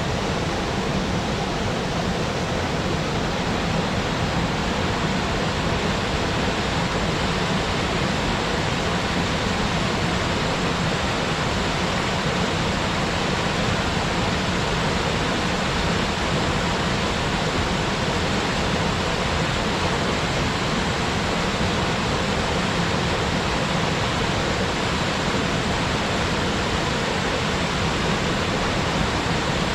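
Waterfall pouring into its plunge pool, a steady, unbroken rush of water.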